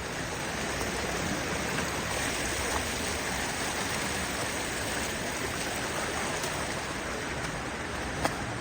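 Steady rush of a fast-flowing canyon creek tumbling over rocks, with a single short click near the end.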